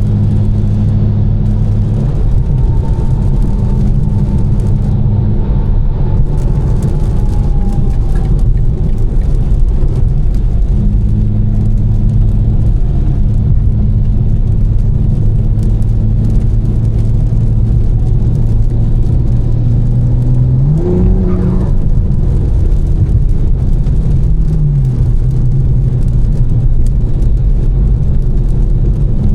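Tuned BMW M4's twin-turbo inline-six, with catless downpipes and an Fi exhaust, droning at a steady cruise over the hiss of a wet road. About 21 seconds in the revs climb briefly and drop back, and a few seconds later they step down again.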